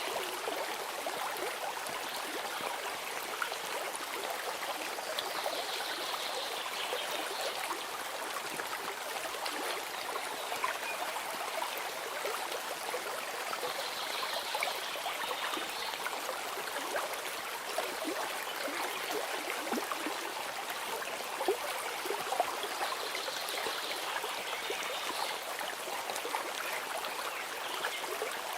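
Stream water flowing and trickling steadily, with many small splashes. A faint high sound recurs about every nine seconds.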